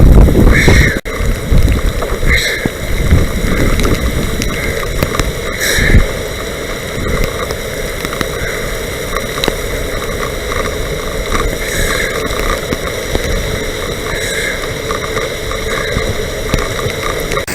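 Wind buffeting the microphone of a bicycle-mounted camera over a steady wet rushing noise of riding in rain. The gusts are heaviest in the first few seconds, then the noise settles to a steady rush.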